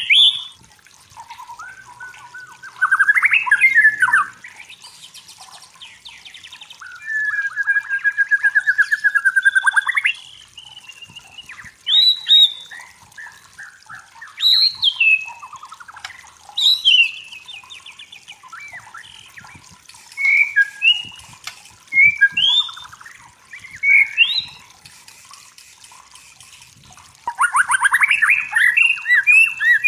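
White-rumped shama (murai batu) singing: separate loud phrases of whistled, slurred notes and fast rattling trills with short pauses between them, ending in a long, fast trill.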